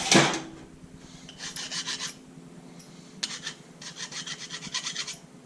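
Fast rasping or scraping strokes in two spells: a short one about a second and a half in, and a longer one from about three seconds to near the end. A brief loud knock comes right at the start.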